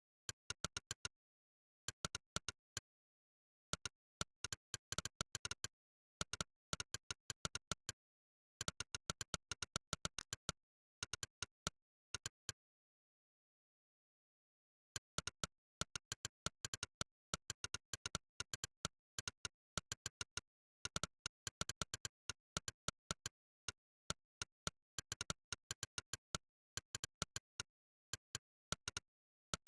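Monkeytype's "click" keypress sound effect: a short, sharp click for each key typed, coming in quick, uneven runs with brief breaks. There is a pause of about two seconds around the middle.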